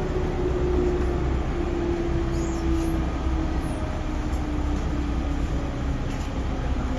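311 series electric multiple unit running, heard from on board: a steady low rumble, with a motor whine slowly falling in pitch as the train slows.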